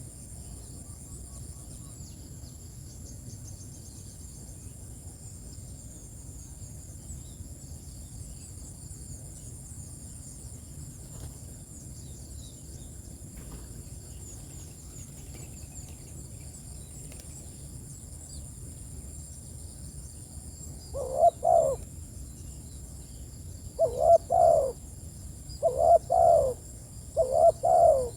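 Steady high-pitched insect chirring, then about twenty seconds in a spotted dove (tekukur) starts cooing: one low call, a short pause, then three more calls in quick succession, much louder than the background.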